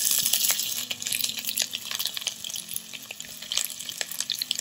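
Diced onions and jalapeños hitting hot oil in a cast-iron pot: a loud rush of sizzling as they go in, easing after about a second into steady frying with scattered crackles and pops.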